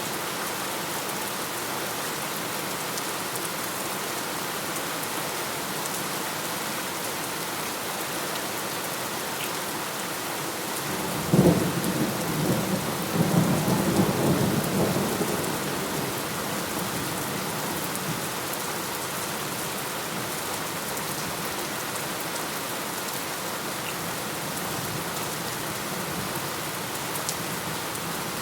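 Steady rain falling, with one thunderclap about eleven seconds in: a sharp crack, then a rolling rumble for several seconds before it fades back under the rain.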